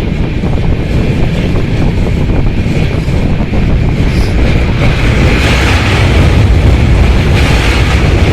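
Loud wind buffeting the microphone at the open window of a moving passenger train, over the low rumble of the train running on the track. It swells a little past the middle.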